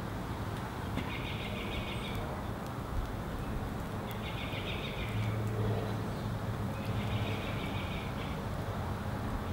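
A songbird singing a short phrase of about a second three times, roughly every three seconds, over a steady low background rumble.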